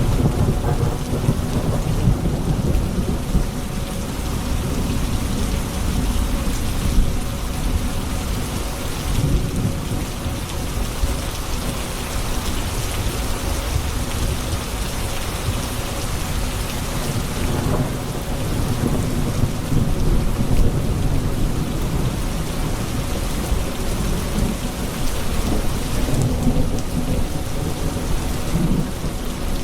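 Steady heavy rain falling on hard surfaces with continuous low rolling thunder rumbling underneath.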